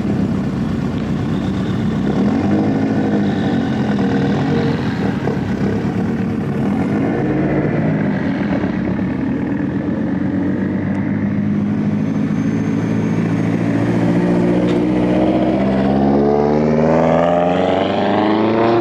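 Car engine running, with a few short rises in engine speed early on, then a long, steady climb in pitch over the last several seconds as it revs up.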